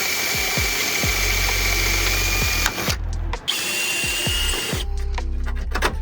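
Power drill running under load as it drills out steel spot welds on a car's front end, with a steady high motor whine. It stops about three seconds in, runs again for just over a second, and stops once more. Background music with a beat plays underneath.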